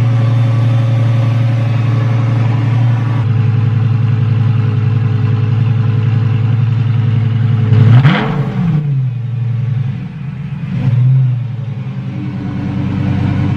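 Lamborghini engine idling through a freshly fitted straight-pipe exhaust with an X-pipe. About eight seconds in it is revved once, rising quickly and falling back, with a shorter blip about three seconds later before settling back to idle.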